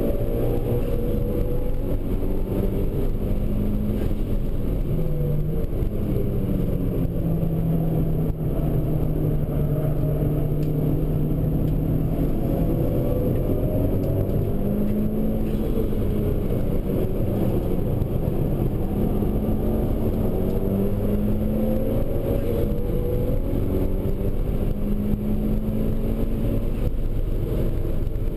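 Mitsubishi Lancer Evolution V's turbocharged four-cylinder engine, heard from inside the cabin as the car is driven hard on track. Its pitch climbs and drops again and again through the gears and corners, over constant road noise.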